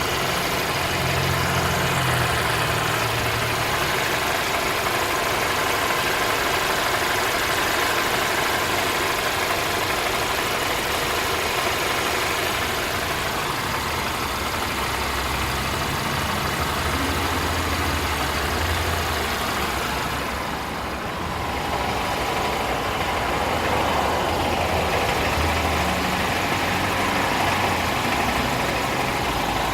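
2017 Infiniti Q50 2.0t's turbocharged four-cylinder engine idling steadily, with the engine noise the owner is still hearing after a repair. The sound dips briefly about two-thirds of the way through.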